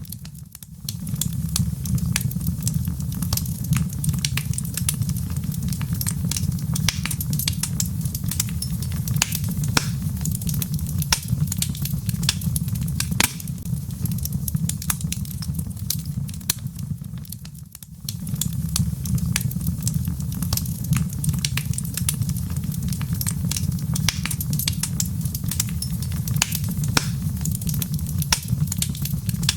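Wood fire crackling in a fireplace: a steady low rumble of burning logs under frequent sharp pops and snaps of the wood. The rumble dips briefly just after the start and again a little past halfway.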